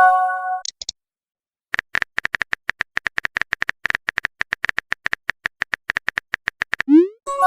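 Text-chat typing sound effect: rapid, even clicks, about eight a second, for about five seconds. A message notification sound frames the clicks, a chord-like tone fading out at the start and a quick rising swoop followed by another tone at the end.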